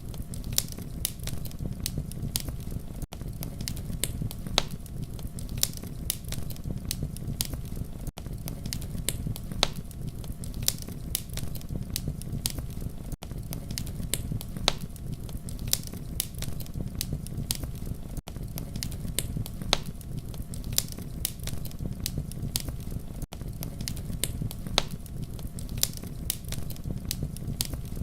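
Campfire crackling and popping: many sharp snaps over a steady low rumble of the burning fire, with a brief dip in level about every five seconds.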